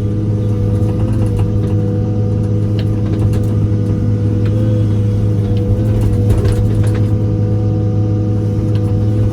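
John Deere excavator's diesel engine running at a steady speed, with no revving, left to run and warm up after sitting unused.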